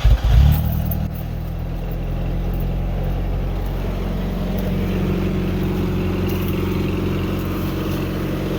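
1991 Chevrolet S10 pickup's engine just after starting: a brief flare of revs in the first half second, then idling steadily as it warms up its overdue oil.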